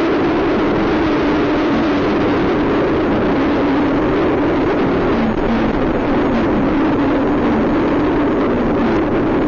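Car driving along, heard from inside the cabin: a steady drone of engine and tyre noise whose pitch sinks slowly.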